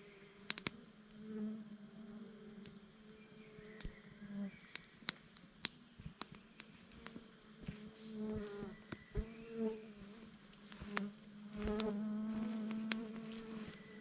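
A flying insect buzzing close by, coming and going with its pitch wavering, over sharp scattered crackles from a wood campfire.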